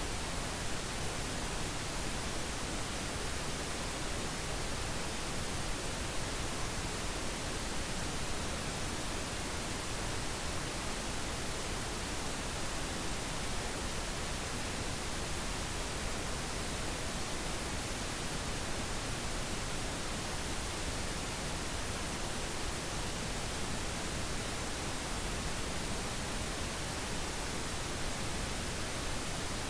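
Steady pink noise: an even hiss spread across all pitches, with no breaks or changes.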